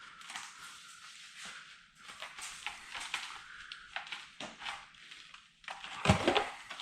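VW T2 bay window windscreen and its rubber seal being pushed out of the body frame: rubbing and scraping with scattered clicks, and a heavier knock about six seconds in.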